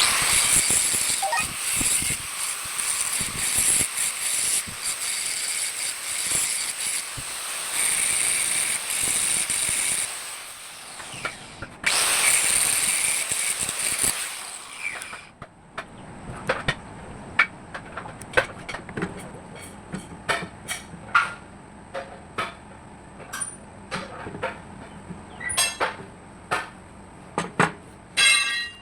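Metalwork on a steel pinion gear: a steady hissing crackle for about ten seconds and again briefly, then a long series of separate sharp metal taps.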